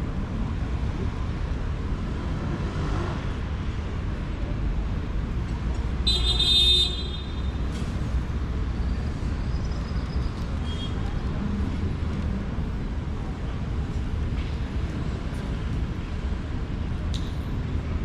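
Steady rumble of city street traffic, with one short vehicle horn toot about six seconds in, the loudest sound.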